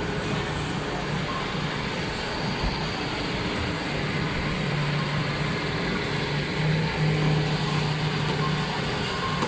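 Steady road and engine noise inside a moving car: an even rumble of tyres with a constant low hum.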